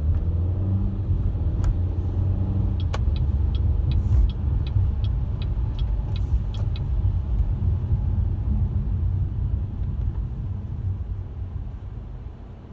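Car driving with a steady low road and engine rumble that dies down near the end. In the middle there is a run of about a dozen even, light ticks, about three a second.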